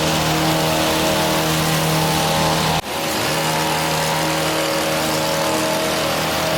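Gas hedge trimmer engine running steadily at high throttle, with a brief drop about three seconds in before it picks straight back up.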